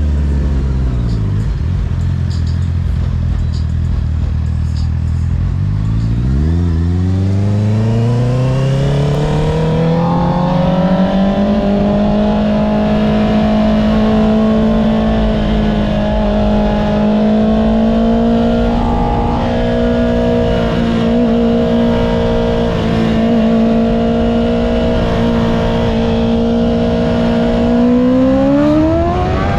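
Honda CBR650R's inline-four engine through an Akrapovic exhaust. The revs drop early and stay low for a few seconds, then climb smoothly as the bike accelerates and settle into a steady cruise. Near the end the revs pick up again.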